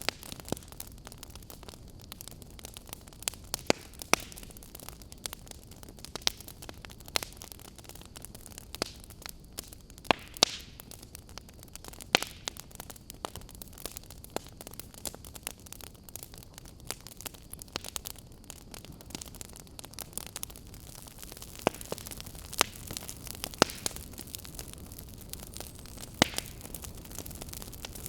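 Wood fire in a fireplace crackling: irregular sharp pops and snaps over a low steady hiss, with a few louder snaps along the way.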